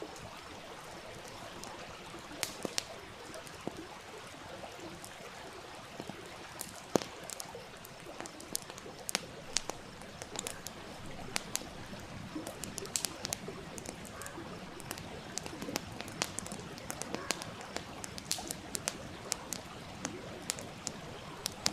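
Wood campfire crackling with frequent sharp, irregular pops over the steady rush of a small stream.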